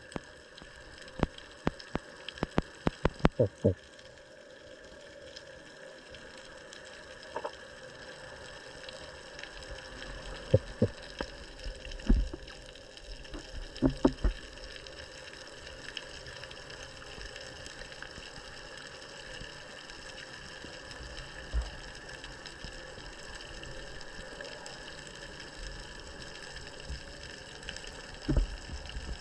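Water sloshing and splashing, with scattered sharp clicks and knocks, several in quick succession in the first few seconds and again about halfway through.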